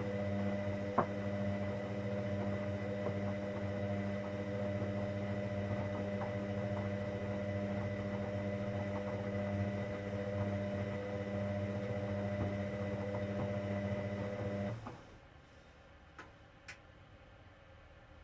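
A motor in a Hoover Dynamic Next washing machine humming steadily with a fixed pitch. It cuts out about fifteen seconds in and is followed by two faint clicks.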